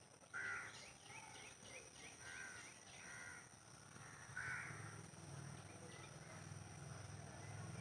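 A crow cawing four times over about four seconds, harsh calls with small birds chirping faintly in between. A low hum comes in about halfway through.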